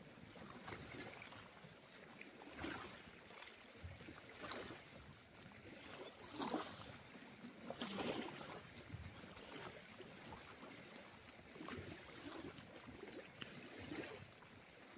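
Water swishing and lapping in soft, irregular splashes one to two seconds apart, the two strongest about six and eight seconds in.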